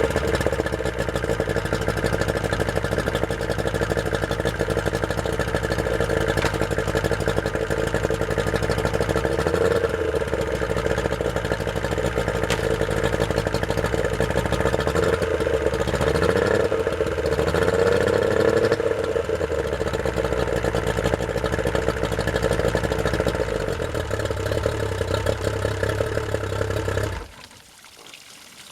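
Yamaha outboard motor idling steadily, then shut off near the end, which leaves the sound of running water from its flushing hose.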